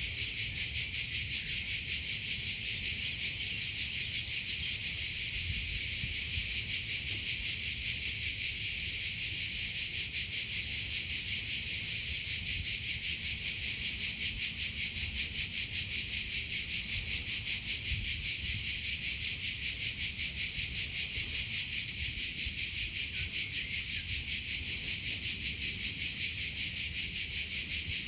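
Cricket chirping continuously in a fast, even pulse of high-pitched trills.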